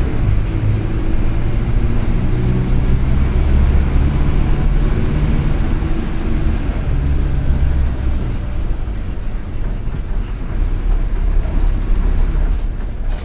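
Mercedes-Benz OF-1722M bus's turbodiesel engine running under load, with a high turbo whistle that rises and falls. The engine note changes about six seconds in.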